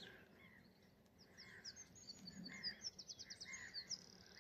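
Faint birdsong: several small birds chirping and twittering, with a quick run of repeated high notes about three seconds in.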